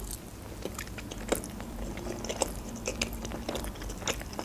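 Close-miked chewing of a mouthful of manti (steamed meat-filled dumplings), with soft, irregular mouth clicks and wet chewing noises.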